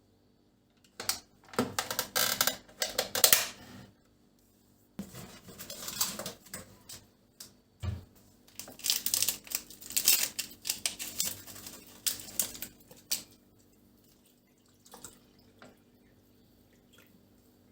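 Bursts of rapid clicking and clattering in two spells, the second longer, then a few faint clicks near the end.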